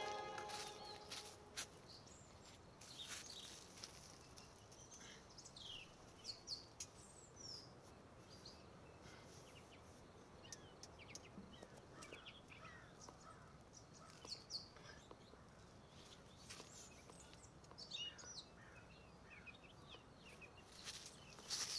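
Faint outdoor background with scattered short bird chirps, plus a few sharp clicks and taps.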